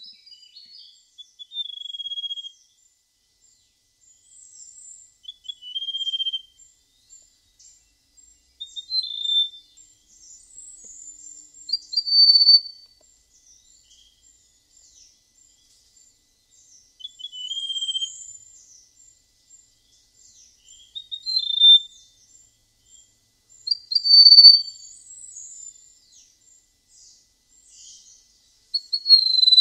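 Prenjak emas songbird singing clear, flute-like whistled notes, one short phrase every few seconds, with faint high chipping between the phrases.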